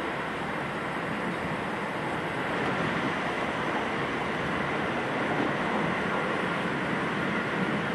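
Steady running noise heard inside the carriage of a moving electric passenger train: wheels on the rails and the rush of movement, with no clear rhythm or sudden events.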